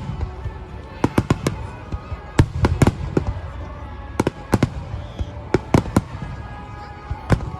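Fireworks bursting overhead: a rapid, irregular series of sharp bangs and crackles in clusters about every second, over a low rumble. Faint background music runs underneath.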